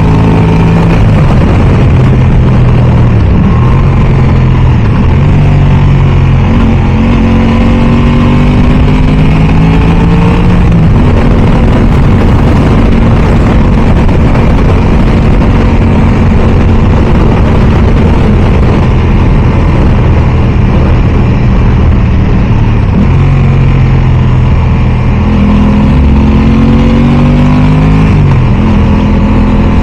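Aprilia Tuono 660 parallel-twin engine under way on the road, its pitch climbing in steps through gear changes, holding steady for a long cruising stretch in the middle, then climbing again near the end, with wind rushing over the microphone.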